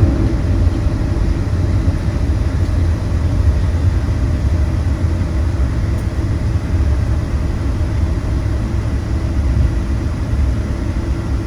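Steady low rumble inside the cabin of a Boeing 777-200ER, its GE90-92B engines running near idle as the airliner rolls on the ground after landing, with a few faint steady tones above the rumble.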